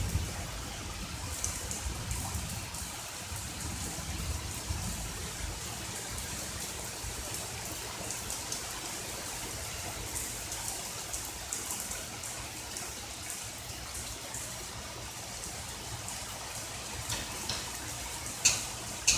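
Steady rain falling, with scattered drops ticking close by and a few sharper, louder drops near the end. A low rumble dies away about a second in.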